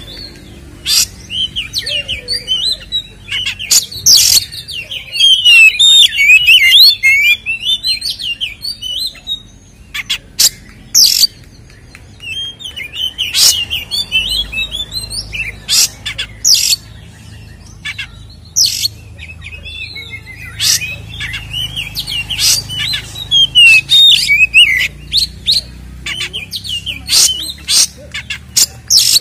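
Oriental magpie-robin (kacer) singing a fast, varied song of whistles and warbles, broken every second or two by loud, sharp, piercing notes. It is the combative 'ngeplong tarung' fighting song, the kind used to provoke other magpie-robins.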